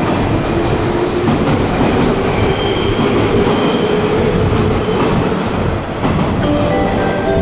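A JR West Yamatoji Line electric train moving along the platform: a steady, loud rumble of wheels on rails with a few faint held tones above it.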